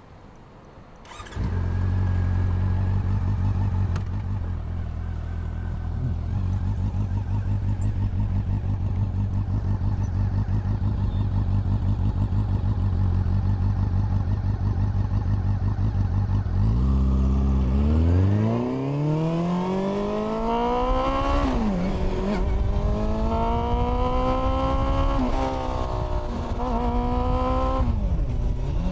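A Honda CB400 Super Four's inline-four engine comes in suddenly about a second in and idles steadily. It then pulls away, revving up through the gears, with the exhaust note rising and dropping back at three gear changes.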